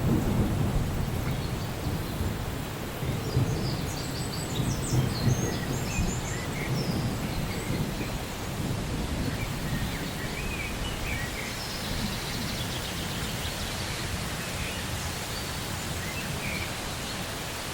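Rainforest thunderstorm ambience: distant thunder rumbling low, loudest at the start and easing off, over a steady hiss of rain. Birds chirp briefly and high now and then.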